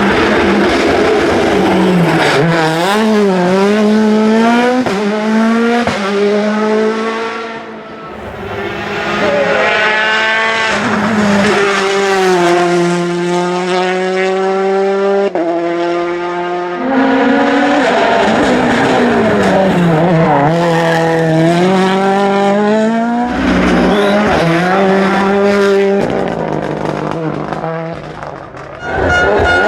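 Rally cars driven hard, several passes one after another: engines revving up through the gears and dropping back on the lift, again and again.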